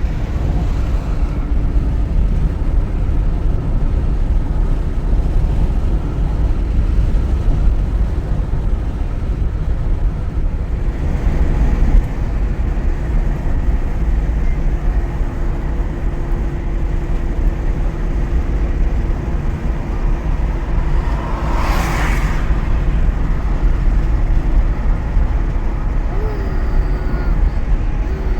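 Steady low rumble of a motor vehicle running, with a brief hiss about two-thirds of the way through.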